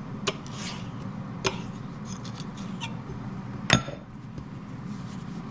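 Kitchen handling sounds: a few sharp clinks and knocks of dishware and utensils, the loudest about three and a half seconds in, over a steady low hum.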